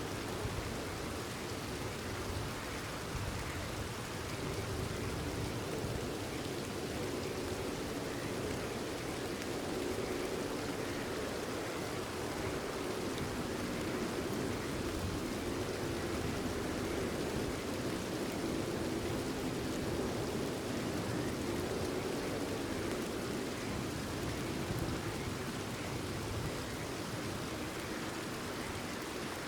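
Steady rain falling, with frogs calling under it.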